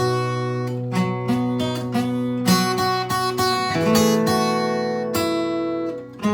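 Solo acoustic guitar playing a melody plucked over held bass notes, the notes left to ring. There is a short lull near the end before the next phrase starts.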